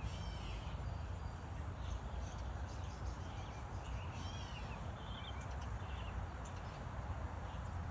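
Small songbirds chirping in short runs of twittering notes, at the start and again about four seconds in, over a steady low outdoor rumble.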